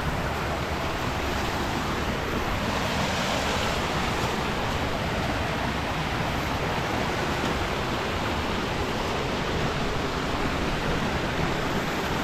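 Mountain river water rushing over rocks, a steady, even rush.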